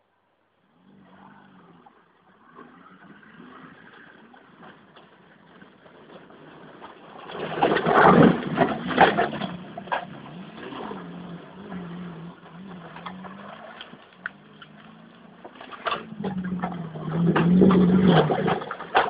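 Skoda 120 rally car's rear-mounted four-cylinder engine revving up and down as the car is driven hard over a rough dirt track. It grows loud as the car passes close about eight seconds in and again near the end, with clattering knocks each time.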